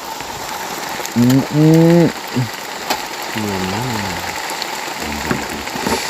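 A man's drawn-out, wordless vocal sounds, the loudest a long held one about a second in, then a shorter wavering one in the middle and fainter ones near the end, over a steady hiss of rain, with a few light clicks.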